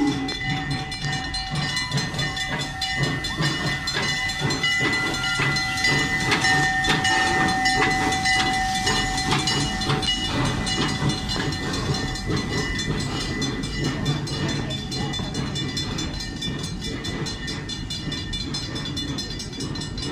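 A small excursion train passing slowly over a level crossing: the steam-style locomotive rumbles by, then its open passenger cars roll past, with regular clicks and a steady high ringing over the rumble. A whistle blast ends right at the start, and the sound eases off slightly as the cars go by.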